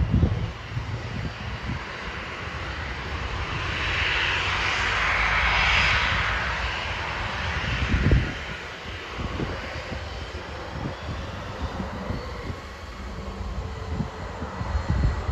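An aircraft's engines passing, swelling to a peak about six seconds in and then fading away. Gusts of strong wind buffet the microphone with low rumbles and thumps.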